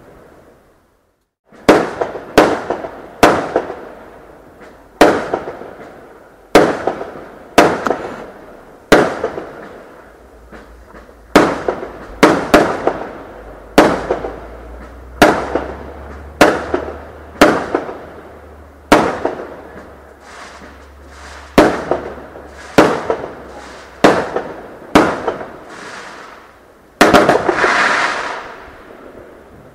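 Fireworks going off in a rapid series of sharp bangs, about one or two a second, each trailing off in echo, with a longer crackling burst near the end.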